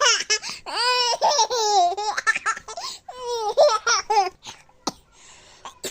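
High-pitched vocal cries in several long, drawn-out runs with sliding, wavering pitch, then a few sharp clicks near the end.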